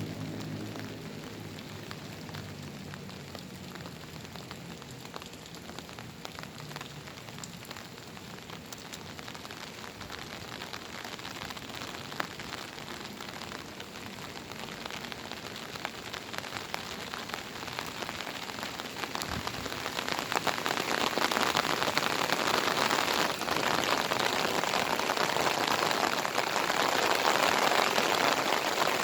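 Monsoon rain pouring down and pattering on surfaces, dense with individual drop hits. The downpour grows clearly louder about two-thirds of the way through.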